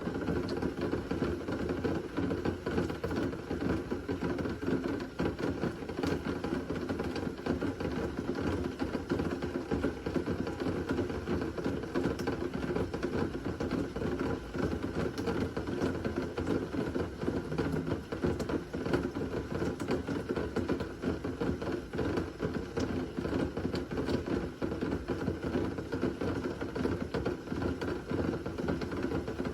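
Steady rain falling during a thunderstorm, a dense, even patter of drops with no thunder.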